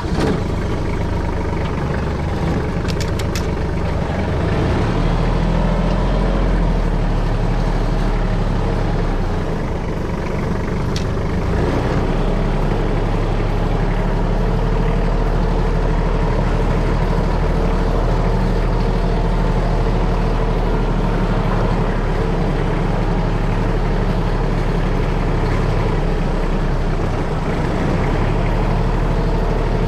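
Kubota KT215 tractor's diesel engine running steadily, its low note shifting slightly a few seconds in and again about twelve seconds in.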